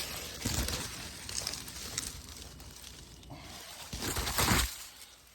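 Rustling noise over a steady hiss, swelling louder twice: briefly about half a second in and most strongly around four seconds in.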